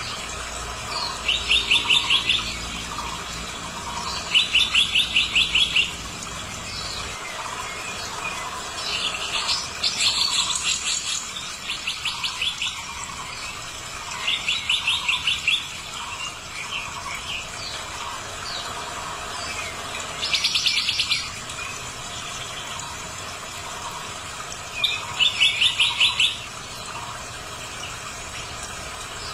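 Songbirds calling: a rapid trill of clipped notes recurs every few seconds, each lasting about a second and a half, over softer scattered chirps. A low hum drops away about seven seconds in.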